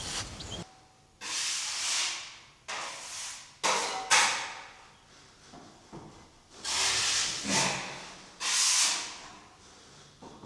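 Pieces of battered fish going into hot oil on a wood-fired stove, sizzling in about seven sudden bursts that each fade away over a second or so.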